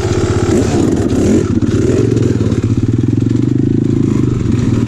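Apollo RFZ 125cc pit bike's single-cylinder four-stroke engine running under throttle, its pitch rising and dipping over the first second or so, then holding fairly steady.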